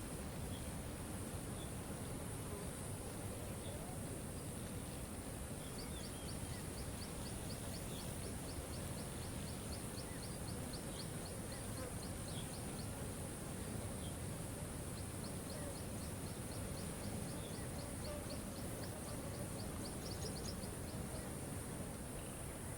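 Steady rush of a waterfall, with a bird singing long trills of rapid repeated notes, about five a second, twice. Short chirps come in between.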